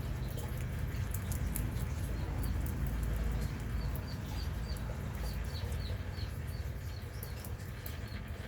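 Small animals feeding, with fine scattered clicks of nibbling. A run of short high chirps, about two a second, starts a couple of seconds in and stops near the end, over a steady low rumble.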